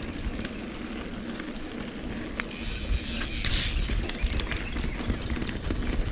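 Mountain bike rolling along a wet dirt trail, wind buffeting the microphone, with small clicks and rattles from the bike throughout and a short hiss about three and a half seconds in.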